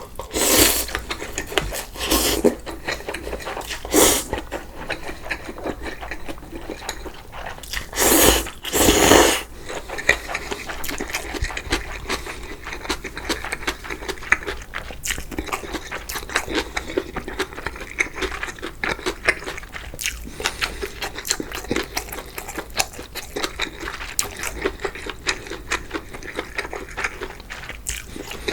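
Close-up eating sounds of spicy cold noodles: loud slurps in the first ten seconds, two of them back to back near the ninth second, then steady wet chewing full of small clicks.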